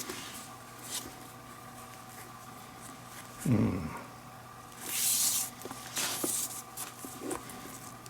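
Leather glove lace being worked through the lacing holes of a baseball glove: light handling clicks and one rasping swish of lace pulled through the leather about five seconds in, with a brief low grunt a little before it.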